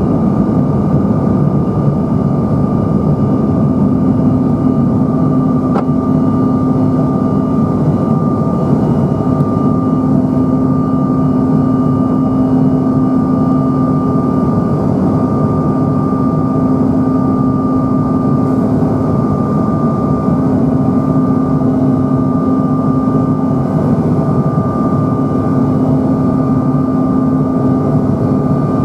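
Steady jet drone heard inside the cabin of a Bombardier CRJ-900 in flight: the rumble of the rear-mounted turbofans and the airflow, with steady whining tones from the engines laid over it.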